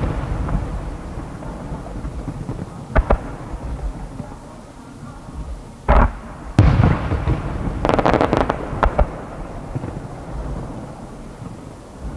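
Distant aerial firework shells bursting: a boom about three seconds in, two more around six seconds, then a quick run of sharp cracks about eight seconds in, with a low rumbling echo between them.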